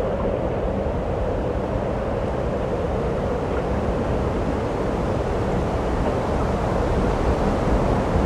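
Strong wind blowing across the microphone: a steady low rumble and rush with no let-up.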